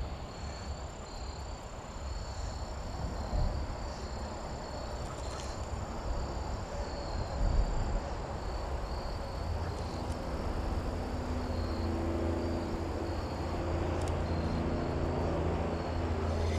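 Insects chirping in a steady, pulsing high rhythm over a low outdoor rumble. From about ten seconds in, a low, steady motor hum comes in and holds.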